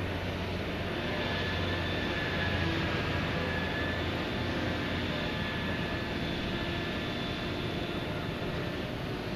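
Heavy machinery of a backhoe dredger running steadily: a low engine hum with faint high whines over a constant mechanical noise.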